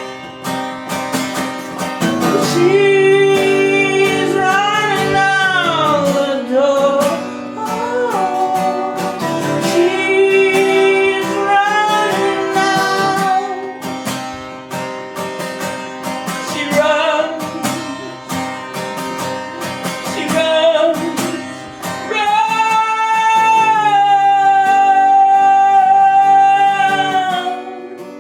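Strummed acoustic guitar with wordless sung notes held long and sliding in pitch, ending in one long sustained note.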